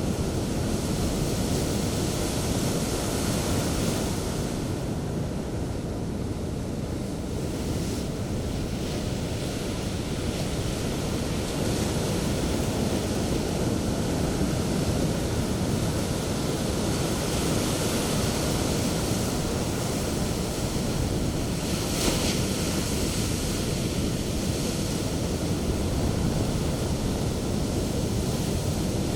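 Sea waves breaking and washing on a sandy shore, a continuous surf roar that swells and ebbs as successive waves come in, with wind rumbling on the microphone.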